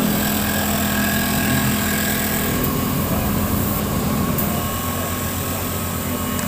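Racing superbike engine running at steady, unchanging revs, heard close up from an onboard camera.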